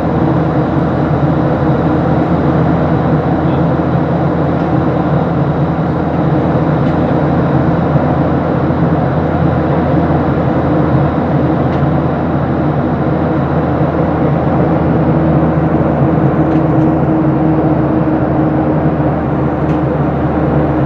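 Steady drone of an aircraft in flight, heard from inside the cabin: a constant rush of air with a low engine hum carrying several steady tones.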